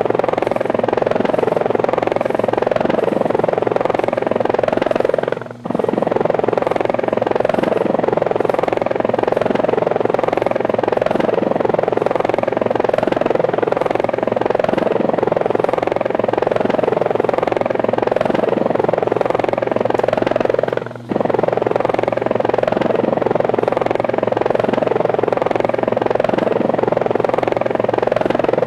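Steady, pulsing helicopter rotor sound, dropping out briefly twice.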